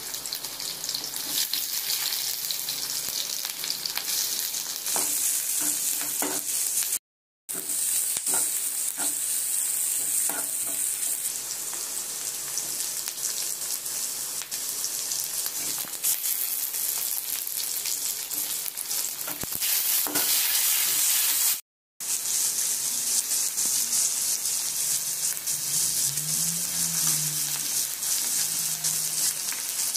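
Onions and vegetables sizzling in hot oil in an aluminium kadai, with a metal slotted spoon stirring and scraping against the pan in scattered clicks. The sound breaks off briefly twice.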